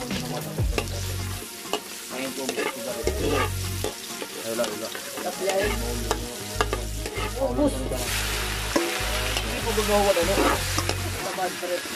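A metal ladle stirs and scrapes in a steel wok while chopped aromatics sizzle in hot oil. About eight seconds in, the sizzling grows louder and brighter as kuhol snails are tipped into the wok from a strainer.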